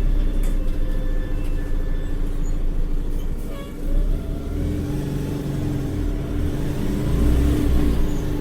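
Agrale micro-bus diesel engine running steadily, heard from inside the bus: a low rumble with a steady hum. There is a short rise in pitch about three and a half seconds in.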